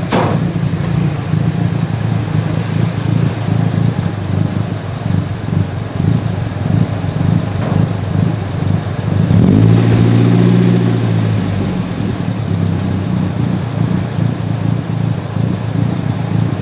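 Nissan 240SX's four-cylinder engine idling through a freshly fitted exhaust with a cheap eBay muffler. About ten seconds in it gets louder and rises slightly in pitch for a couple of seconds, then settles back to idle.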